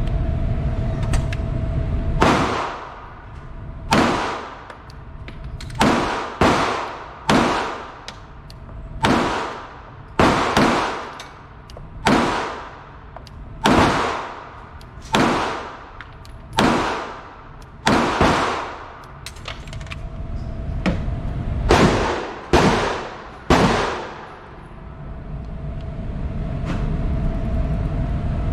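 Handgun shots at a range: about sixteen single shots fired at an uneven pace a second or two apart, each a sharp crack with a short echoing decay. A steady background hum with a faint tone lies under them.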